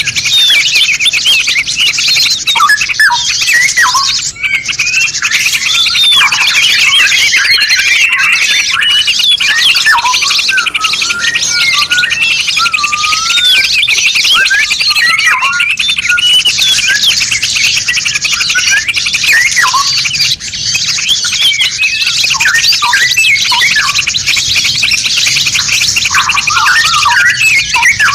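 A dense chorus of many songbirds singing at once: rapid high twittering overlaid with whistled, up-and-down phrases and chirps. It is a layered compilation of cage-bird calls used as 'masteran' tutoring song.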